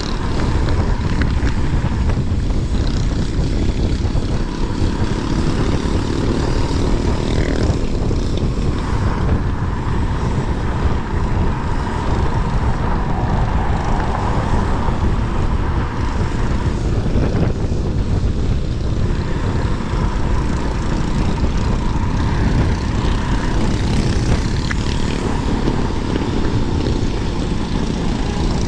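Wind rushing over the microphone of a rider on an electric scooter at speed: a loud, steady rush with a faint whine underneath.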